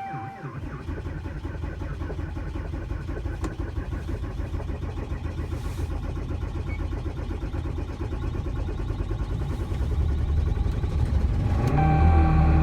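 The 6.7-litre Cummins inline-six turbo-diesel of a 2016 Ram 3500 cranking on the starter for about eleven seconds in a −20 degree cold start after two days unplugged. It is slow to fire, then catches and settles into a steady run near the end.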